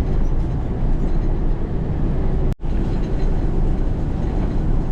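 Steady low rumble of a semi-truck under way on the highway, engine and road noise inside the cab. All sound drops out for an instant about two and a half seconds in.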